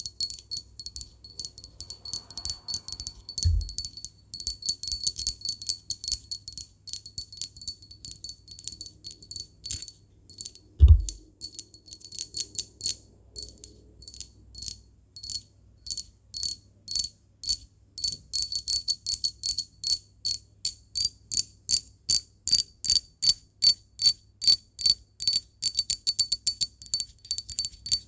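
Glass being tapped for ASMR: a long run of light, sharp taps, each leaving a short high ring, quickening to about three taps a second near the end. Two dull thumps come through as well, the louder about a third of the way in.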